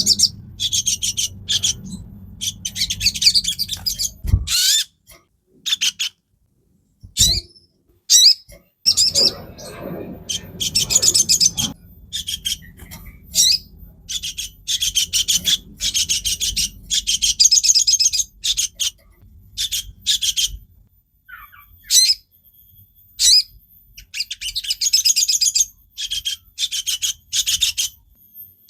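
A crimson sunbird (sogon) singing: repeated bursts of rapid, high-pitched twittering trills with short pauses between them. Two sharp clicks come a few seconds in.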